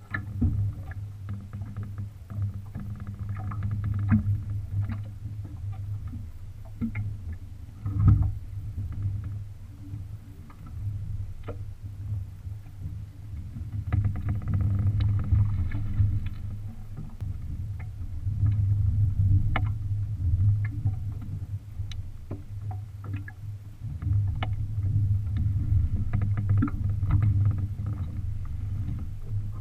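Gusty wind buffeting the microphone, a rumble that rises and falls, with scattered knocks and clicks from the small sailboat's gear as the sails are dropped, and one loud thump about eight seconds in.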